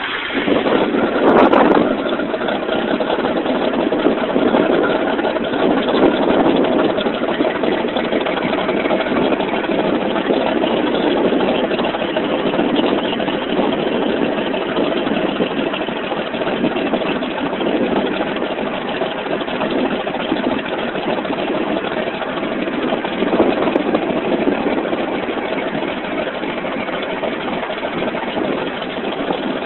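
John Deere 8970 tractor's Cummins N14 inline-six diesel on a cold start, getting louder as it fires up about a second or two in, then settling into a steady idle.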